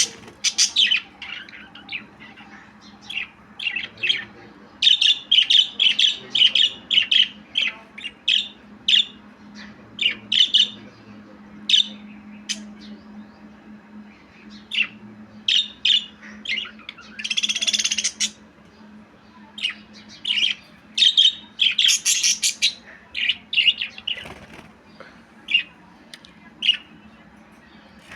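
Budgerigar chirping in quick, irregular short calls, with one longer harsh call a little past the middle. A faint steady low hum runs underneath.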